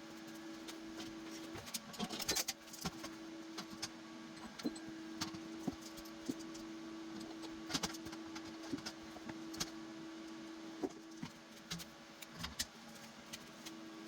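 A steady low electrical hum with scattered sharp clicks and light knocks, a brief cluster of them about two seconds in.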